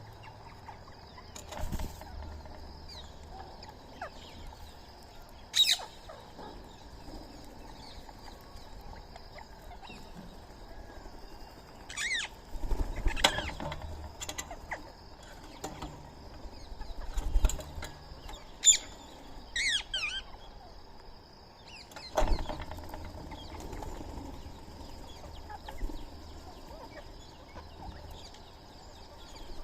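Birds calling: a handful of short, sharp, bending calls come singly and in quick clusters, over a faint steady high whine and a few dull low thumps.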